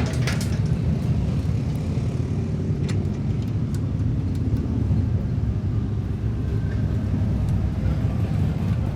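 A steady low rumble, with a few faint light clicks about three and four and a half seconds in.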